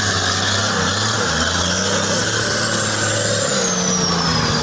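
Toyota Land Cruiser 78 off-road truck's engine running steadily, its pitch shifting about three and a half seconds in. A thin high whine falls in pitch at the same moment.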